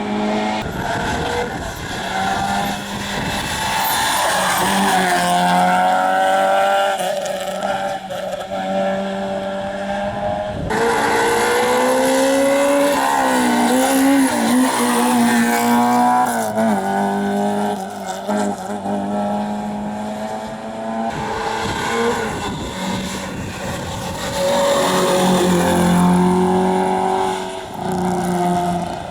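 Rally cars at full attack on a special stage: engines revving high and dropping back through gear changes, one car after another. The sound changes abruptly about a third and two-thirds of the way through as it moves to another pass.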